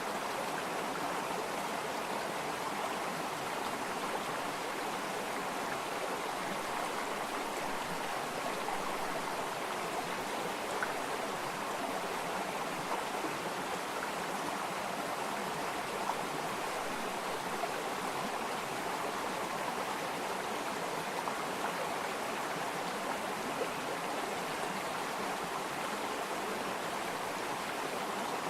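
Water flowing steadily over rocks in a stream, a continuous rushing with a few small splashes.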